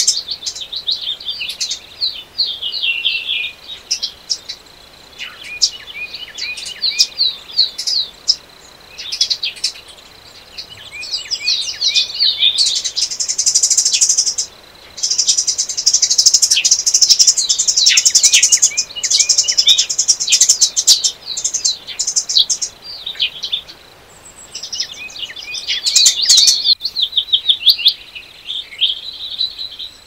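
Songbirds singing: quick chirping notes and long, high, buzzy trills a few seconds at a time, with a faint steady high tone beneath.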